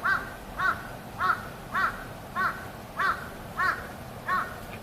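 A crow cawing: a steady run of about eight short calls, a little over half a second apart.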